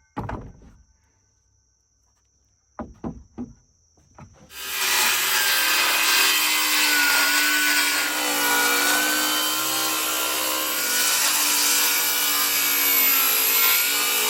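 A few light knocks as the saw is set on the board, then, about four and a half seconds in, a battery circular saw starts and rips steadily along a rough-sawn plank for about ten seconds, its pitch wavering a little under load, and winds down near the end.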